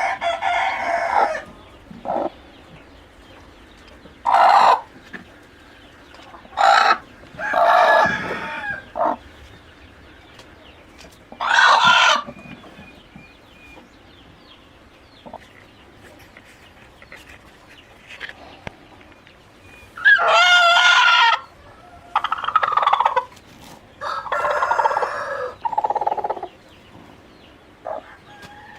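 Free-range chickens calling: a rooster crowing and hens clucking in separate calls throughout, the longest crow about two-thirds of the way through.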